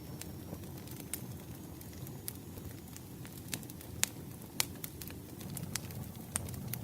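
Campfire burning: a low steady rumble of flames with irregular sharp crackles and pops from the wood, the loudest about four and four and a half seconds in.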